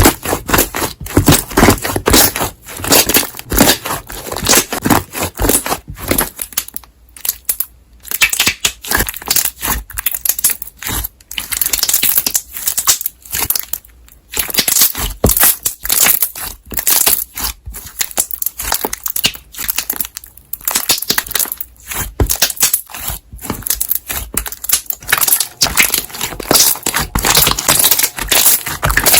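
Large batch of slime being squeezed and kneaded, with rapid, irregular crackling pops of trapped air bubbles bursting.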